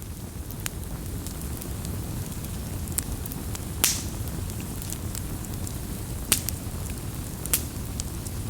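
Wood fire burning with a steady low rumble and scattered sharp crackles and pops, the loudest about four, six and seven and a half seconds in.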